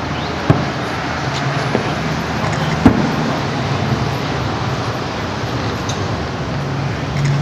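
Fireworks going off, heard as a few sharp bangs, the loudest about three seconds in. Under them runs a steady traffic-like rumble with a low hum.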